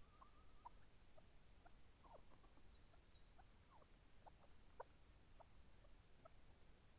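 Chukar partridge giving faint, short squeaky calls at an uneven pace, a few each second, some of them falling in pitch.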